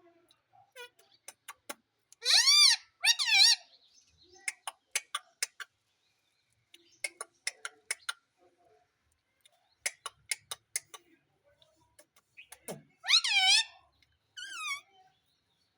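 Indian ringneck parrot calling: loud squawks that rise and fall in pitch, two close together about two seconds in and two more near the end, with runs of short clicks between them.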